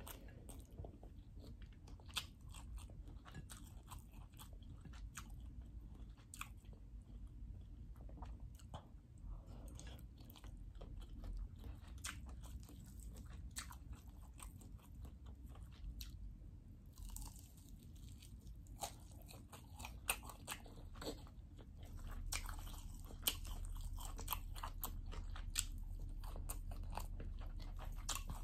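Close-up chewing and biting as a person eats chicken fried rice and fried chicken by hand, with many short, irregular sharp clicks from the mouth and food. A low steady hum runs beneath and grows a little louder from about 22 seconds in.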